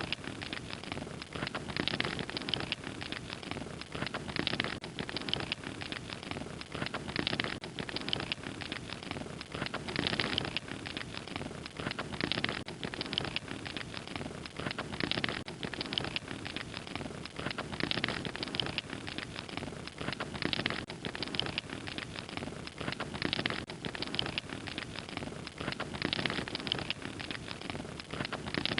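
Fire crackling: a steady, dense run of small pops and snaps.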